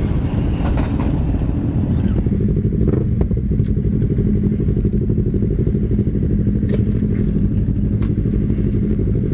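Yamaha R25's 249 cc parallel-twin engine running steadily at low revs, heard from the rider's own bike, with a few faint clicks.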